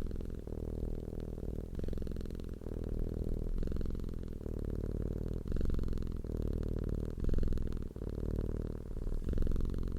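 Domestic cat purring close up: a low, continuous rumble that swells and dips with each breath in and out, roughly once a second.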